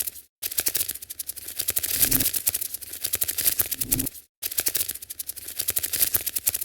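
A looped skittering sound effect of fast, dense clicks and scratches, the kind laid under a crawling spider in cat games. It breaks off briefly just after the start and again about four seconds in, then starts over.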